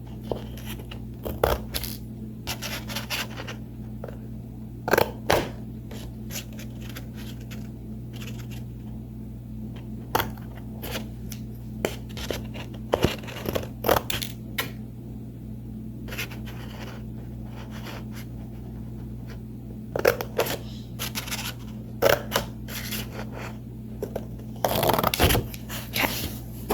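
Scissors snipping through paper in short, irregular cuts, cutting out small triangles, over a steady low hum.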